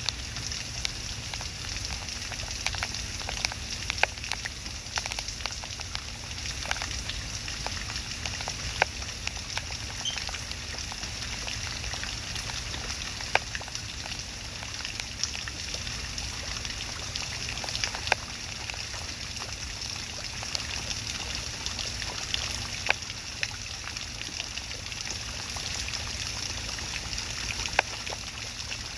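Water trickling steadily, with scattered sharp ticks.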